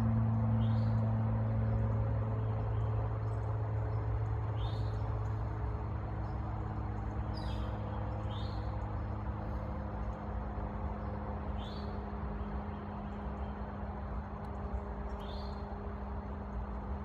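A small bird giving a short chirp six times, a few seconds apart, over steady outdoor background noise. A low humming tone fades out over the first couple of seconds.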